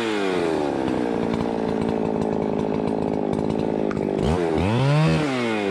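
Two-stroke chainsaw cutting through a log: the engine note drops as the chain bites in and holds steady under load. Near the end it revs up once and falls back.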